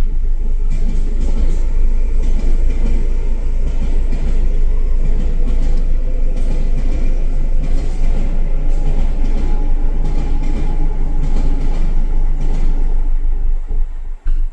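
Tobu 10000 series electric train passing close by at a level crossing: a loud, steady rumble with wheels clacking over the rail joints. It cuts off suddenly near the end.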